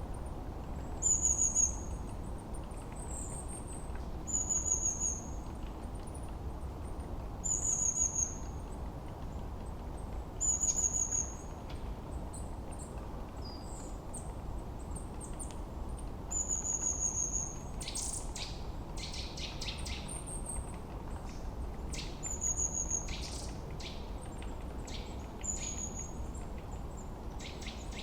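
Forest birds singing: one bird repeats a short, high, falling whistled phrase every three to four seconds, and a run of sharp chip calls comes a little past the middle. A steady low background hiss runs beneath.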